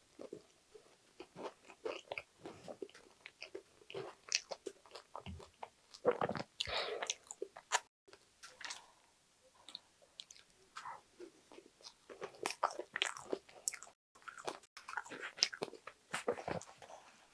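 Close-miked eating: chewing and mouth sounds over mouthfuls of strawberry cheesecake with a crunchy crumble topping, in bursts of small crackles and clicks. A spoon scrapes the plastic tub while scooping more cake.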